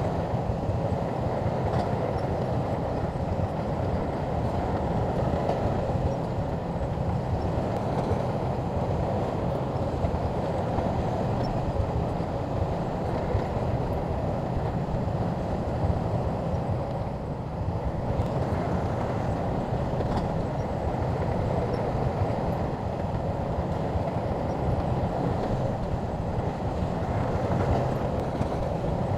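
SHANTUI crawler bulldozer's diesel engine running steadily under load, with a continuous low rumble that dips briefly about two-thirds of the way through.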